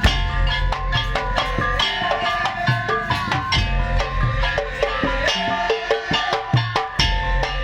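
Percussion ensemble playing a fast, steady rhythm on drums and wood blocks, with a melodic line over it and a low drum beat underneath.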